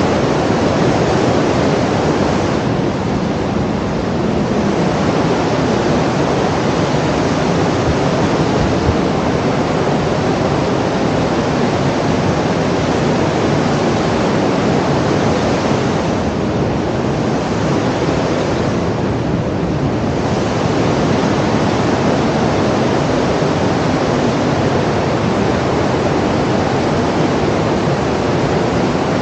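A steady, loud rushing noise with no distinct events, its top end thinning slightly twice.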